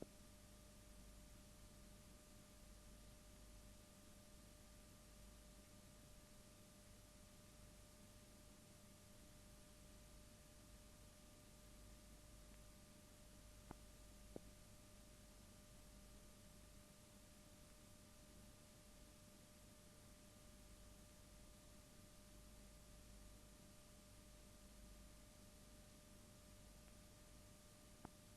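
Near silence: a faint steady hiss and low hum with a thin steady whine, broken by a few faint clicks, twice near the middle and once near the end.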